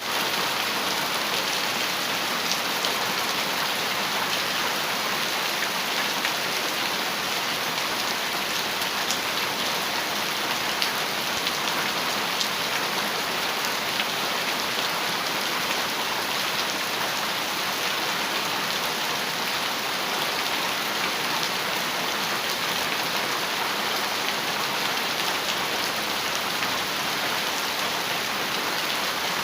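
Heavy rain falling steadily on a metal roof: a dense, even hiss with scattered sharper ticks of single drops.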